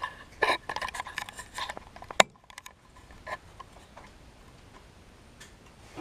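Handling noise from a small camera and its mount being fitted and propped up: a run of small clicks and taps, one sharp click a little after two seconds in, then only a few faint taps.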